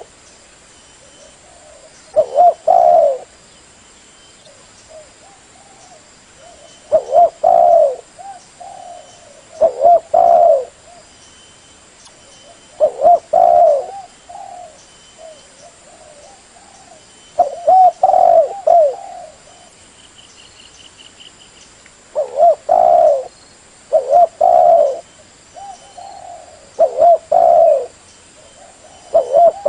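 Spotted dove (terkukur) cooing: a short phrase of several low coos, repeated about every three to five seconds.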